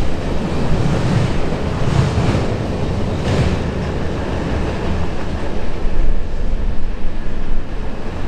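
Rear cars of a freight train rolling away over the rails: a steady low rumble of wheels on track.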